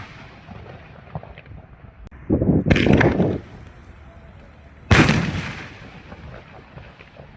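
Gnanavel 3-inch fancy aerial firework shells going off: a loud, rough blast about two seconds in that lasts about a second, then a single sharp bang about five seconds in that fades over about a second.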